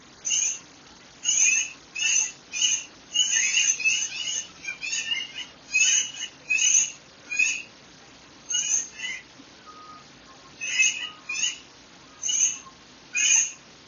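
Birdsong: short, bright chirps repeated over and over in quick runs with brief pauses between them.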